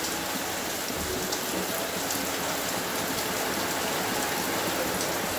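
Steady rain: an even hiss with small drop ticks scattered through it.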